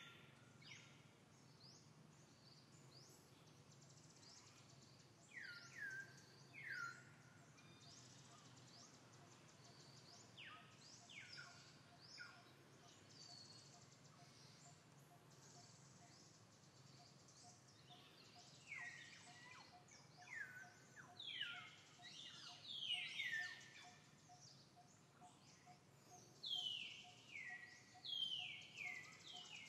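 Birds calling: short, high chirps that sweep quickly downward, coming in clusters and loudest in the second half, over faint background noise. A faint, evenly repeated note runs underneath from about ten seconds in.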